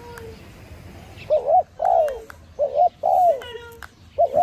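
Doves cooing: after a quiet first second, a run of about six short, low coos that rise and fall in pitch.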